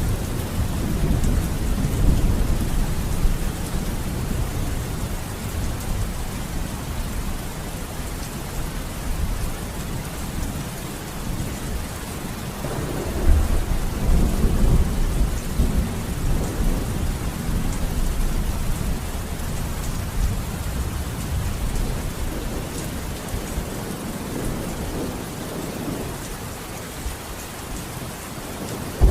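Steady rain falling, with thunder rumbling low underneath; a stronger roll of thunder swells about halfway through and slowly fades.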